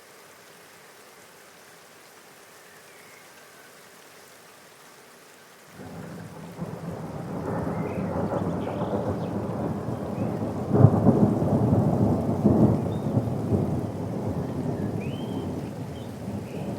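Soft, steady rain hissing, then about six seconds in a rumble of thunder begins suddenly and rolls on over the rain, loudest a few seconds later before slowly fading.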